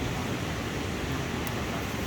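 Steady rushing of a fast-flowing river, an even, unbroken roar heaviest in the low range. A faint tick about one and a half seconds in.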